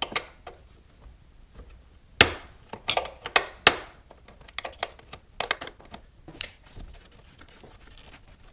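Irregular metallic clicks and knocks of a wrench working on the 10 mm bolts of a secondary air injection pump, with a cluster of louder knocks around two to four seconds in.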